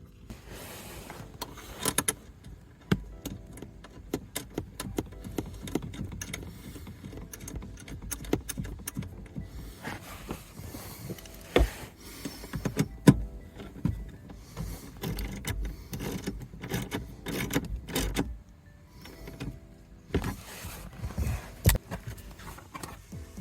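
Plastic interior trim panels being handled and snapped back into place: a long run of irregular clicks and knocks over rustling, with a few sharper snaps.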